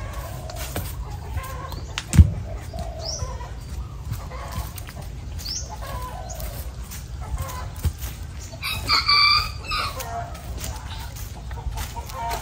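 Birds calling: short rising chirps and, a little past the middle, one longer call of over a second with several stacked tones. A single sharp thump about two seconds in is the loudest sound.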